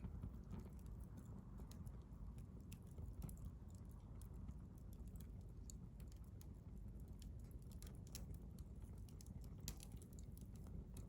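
Wood campfire crackling faintly: scattered, irregular sharp pops and snaps over a low steady rumble.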